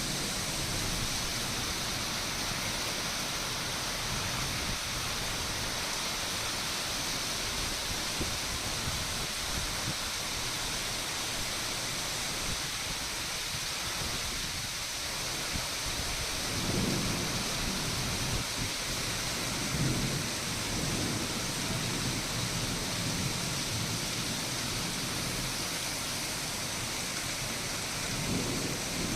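Steady hiss of heavy rain, with low rolls of thunder swelling up about halfway through and again near the end.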